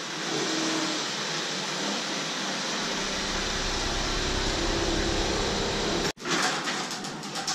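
An SUV's engine running as it drives slowly into a garage, a low rumble growing as it pulls in close. The sound cuts off abruptly about six seconds in, and a few sharp clacks follow.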